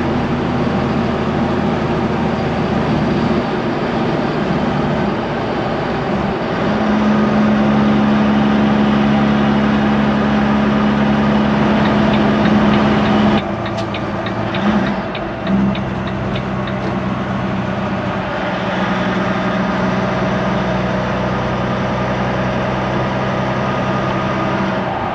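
Semi truck's diesel engine running steadily while driving, with a steady low engine note. About halfway through, the sound changes abruptly and settles on a new steady note.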